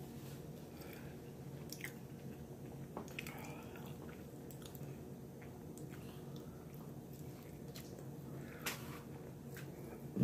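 Close-up chewing and biting of a person eating breaded chicken tenders, with soft wet mouth clicks now and then over a faint steady hum.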